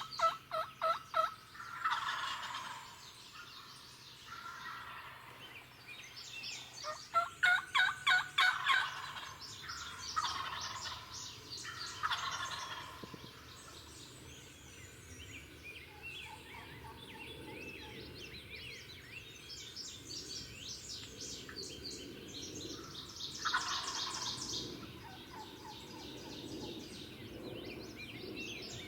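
Wild turkeys gobbling several times, each gobble a short rattling burst, with runs of quick repeated yelps at the start and again around seven to nine seconds in. Songbirds chirp faintly throughout.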